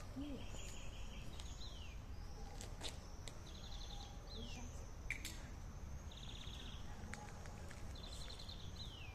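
A songbird singing the same short phrase over and over, a quick buzzy trill followed by a downward-slurred note, every few seconds, over a steady low outdoor rumble. A couple of sharp clicks come near the middle.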